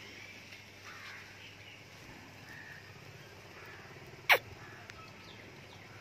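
Faint bird chirps, with one loud, brief call about four seconds in that sweeps steeply down in pitch.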